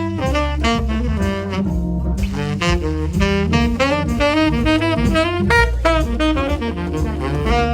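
Tenor saxophone improvising a fast jazz line of quickly changing notes over a bass and drums accompaniment.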